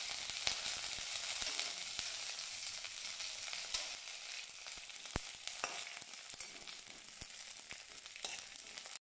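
Maldive fish flakes frying in hot coconut oil in a metal wok, a steady sizzle that slowly dies down. A metal slotted spoon stirring them gives a few sharp clicks and scrapes against the wok.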